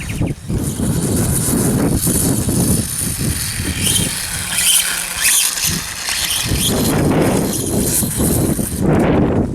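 Battery-powered RC dirt bike running outdoors, its electric motor whining and rising and falling in pitch over a heavy low rumble.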